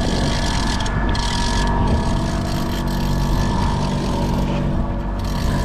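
Boat engine running steadily at trolling speed, with short hissing rushes of noise about a second in and again near the end.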